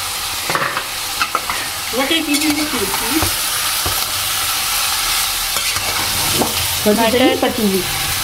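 Mixed vegetables and peas sizzling in an aluminium pot on a gas burner, a steady hiss, with a metal spoon knocking and scraping against the pot a few times as they are stirred.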